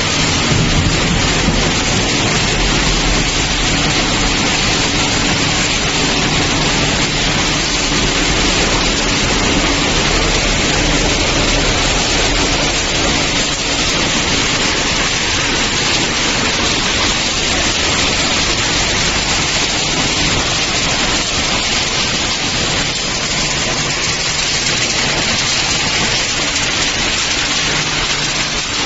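Refrigerator recycling plant machinery running: a loud, steady, even rushing noise with a faint low hum beneath it.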